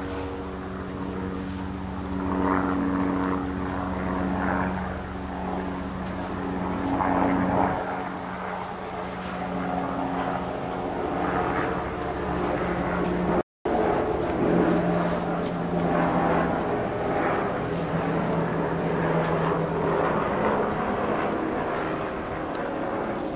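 Propeller aircraft's piston engines droning steadily, cutting out for an instant about halfway through and coming back at a slightly lower pitch.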